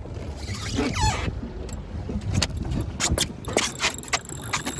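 Steady low rumble of a boat's motor and water, with a quick run of sharp clicks and knocks in the second half.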